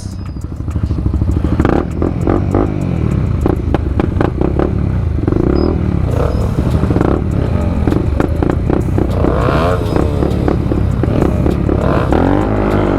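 Motorcycle engine accelerating hard in a street race, its pitch rising and falling several times as it pulls and the revs change.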